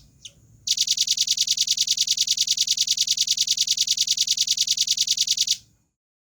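Velvet-fronted nuthatch calling: a short chirp, then a fast, even trill of high notes, about nine a second, lasting about five seconds and cutting off suddenly.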